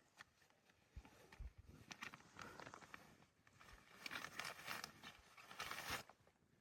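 Faint rustling with a few soft knocks, near silence.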